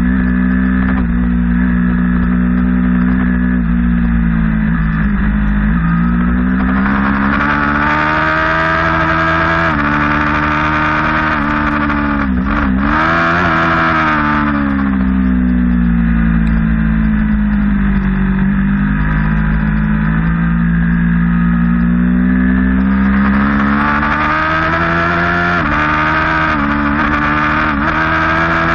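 Sport motorcycle engine at track speed. Its note climbs and falls through the straights and corners, with quick dips at the gear changes and a cluster of them about halfway through where it shifts down for a corner. A steady wind rush on the microphone runs underneath.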